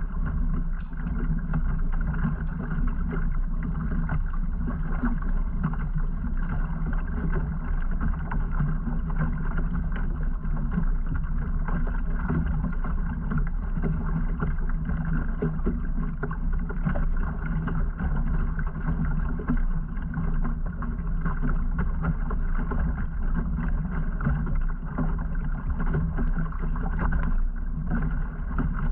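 Kayak under way at slow trolling speed: a steady, muffled hum of its drive with water running along the hull and light wind on the microphone.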